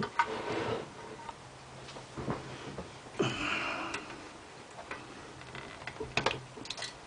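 A few light clicks and knocks of handling things at a workbench, with a short rustle about three seconds in and a small cluster of clicks near the end.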